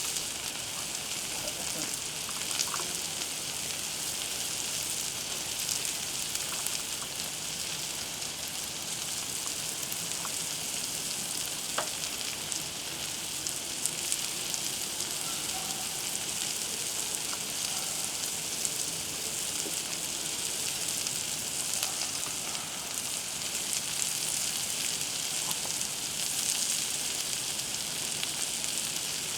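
Food sizzling steadily on the hot flat-top of a Blackstone griddle, a continuous frying hiss with scattered small pops and crackles.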